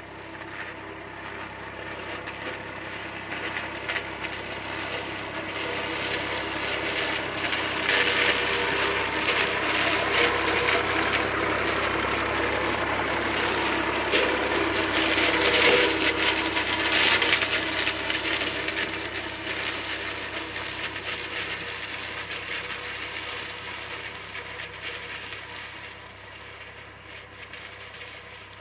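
IMT 539 diesel tractor running with a SIP Roto 135 corn harvester working behind it, a steady machine noise that grows louder, peaks around the middle and fades away again as it passes.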